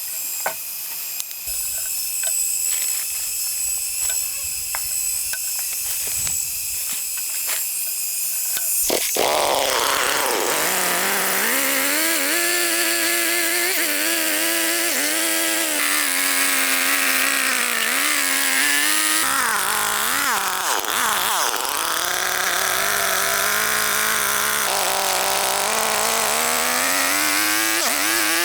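A chainsaw engine running, its pitch rising and falling as it works. It follows about nine seconds of a high, steady power-tool whine broken by regular clicks.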